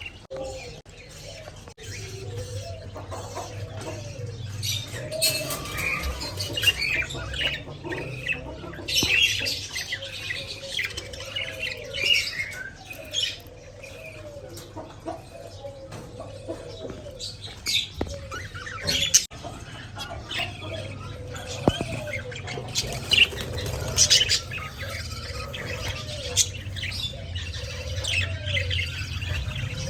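Pet budgerigars chirping and chattering in quick, busy bursts, with an occasional sharp click and a brief flutter of wings.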